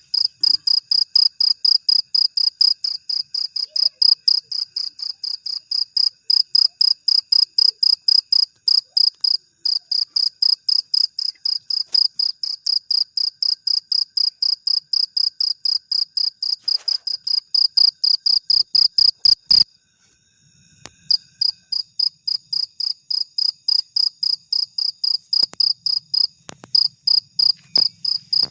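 An insect, cricket-like, chirping loud and high-pitched in a fast, even run of short pulses, several a second. It stops for about a second roughly two-thirds of the way through, then starts again.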